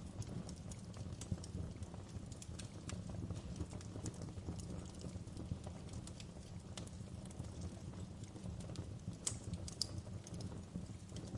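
Wood fire burning in a fireplace: a steady low rumble of flame with irregular sharp crackles and pops from the burning wood, and a couple of louder pops near the end.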